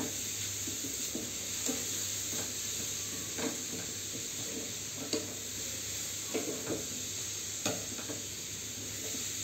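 Grated carrots sizzling in ghee in a metal kadhai as they are cooked down. A spatula stirs and scrapes through them in short, irregular strokes about once a second.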